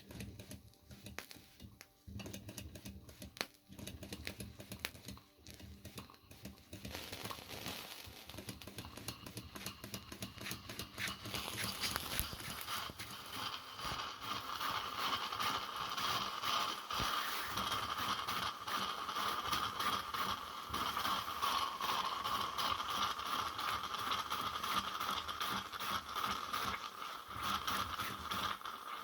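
Small Bing live steam traction engine toy running on steam: halting, uneven clicks and strokes for the first several seconds, then from about seven seconds in it picks up into a steady, rapid ticking and clattering over a constant steam hiss as the engine comes to pressure and ticks over on its own.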